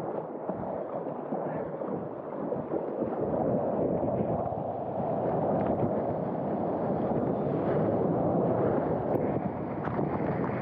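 Rushing white water of a breaking surf wave churning around a waveski as it is ridden, a steady rush that swells about three to four seconds in.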